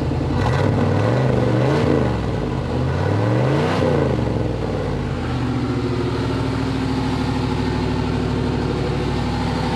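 Chevrolet 5.7 L 350 TBI small-block V8 exhaust through a Walker SoundFit muffler. The engine is revved up and back down a few times over the first four seconds or so, then settles to a steady idle.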